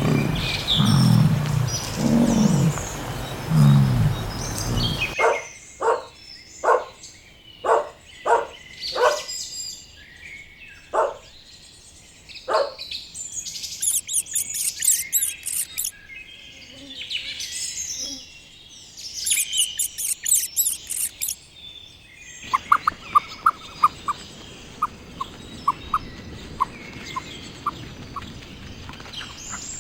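A big cat's roar ending in a few low grunts about a second apart. Then a series of bird calls: sharp separate calls, bursts of high chirping, and a quick run of short ticking notes near the end.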